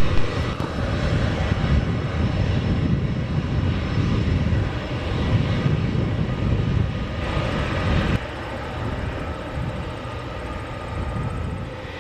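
Jet engines of a Boeing 767-200 freighter running, a steady low rumble with a hiss above it. The sound drops abruptly in level about eight seconds in.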